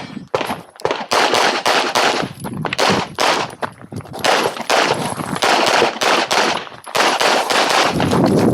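Handgun fired rapidly in quick strings of shots, several a second, with brief lulls between strings: a competitor shooting a practical-shooting stage against the timer.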